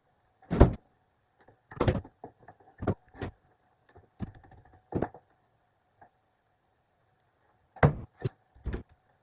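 A string of irregular knocks and clicks from hard objects being handled and set down, about a dozen in all, with the loudest about half a second in and again near the end.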